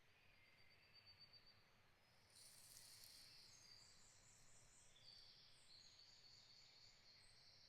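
Faint, high-pitched birdsong in forest ambience: a thin trill about half a second in, then from about two seconds in a livelier run of high trilled phrases that step between pitches.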